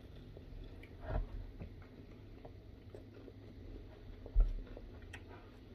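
Close-up chewing of a bitten fried seafood rangoon, with small scattered clicks from the mouth and crisp wrapper. A dull thump about four and a half seconds in is the loudest sound.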